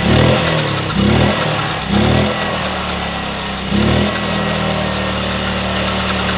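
1966 Honda P50 moped's small four-stroke single-cylinder engine running just after a cold start, with the choke freshly turned off. It is revved up and back down four times in the first four seconds, then settles to a steady idle.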